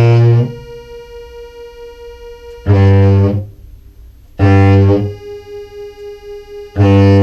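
Contrabass clarinet through fuzz pedals playing four short, loud low notes about two seconds apart. Between the notes a quieter, slightly pulsing higher synth tone from a Meris Enzo pedal hangs on. The Enzo fails to track these low notes and sounds the wrong pitch, which the player puts down to overtones or tuning.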